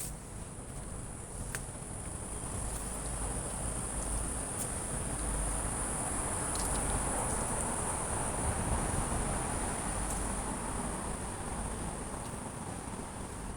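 An insect's steady, high-pitched trill, typical of a cricket or cicada, over a low rushing background noise that swells in the middle and then eases.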